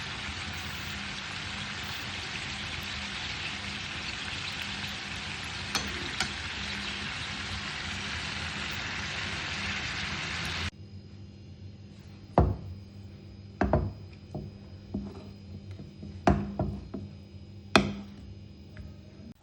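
Food frying in a pan with a steady sizzling hiss. It cuts off abruptly about ten seconds in, and a quieter stretch follows with several sharp knocks of a utensil against the pan.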